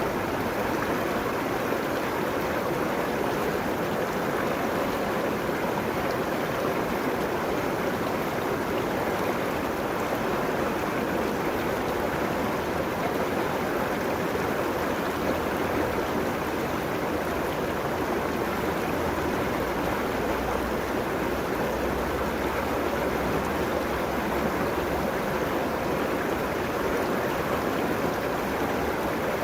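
River water running steadily over its bed along the bank, a continuous rushing flow.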